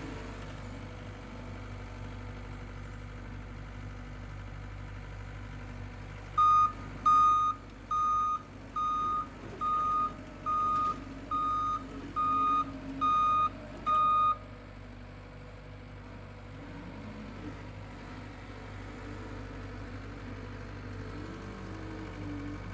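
The engine of the power-raking machine runs steadily while its backup alarm sounds ten even beeps, a little over one a second, starting about six seconds in and stopping after about eight seconds: the machine is reversing.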